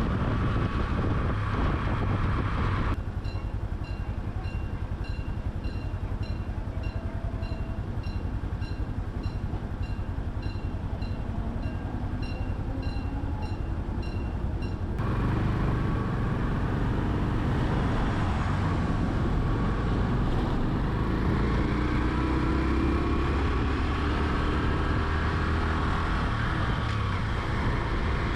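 Honda Super Cub's small single-cylinder four-stroke engine running, with wind and road noise while riding. In a stretch starting about three seconds in, the sound drops and a regular high beeping tick at about two a second runs for roughly twelve seconds. After that the louder engine and wind rumble returns.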